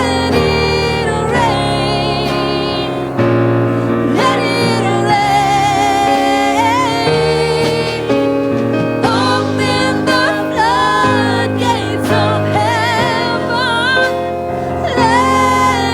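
Gospel music: a woman singing with vibrato over piano or keyboard chords, with a choir joining in.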